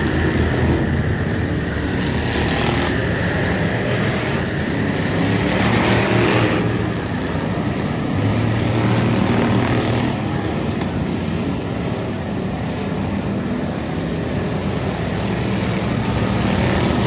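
Race cars' engines running hard as they circle an oval track, a continuous loud drone that swells as the pack goes by, loudest about six seconds in.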